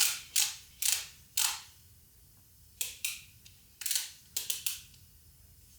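Torque wrench ratcheting on a front wheel hub's outer locknut, tightening it toward 58 foot-pounds: a run of sharp metallic clicks with short ringing, four in the first second and a half, then after a pause a second cluster of clicks.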